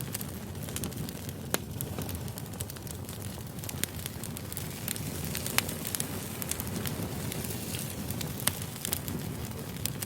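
Wood campfire burning, with a steady low rush of flame and frequent sharp, irregular crackles and pops.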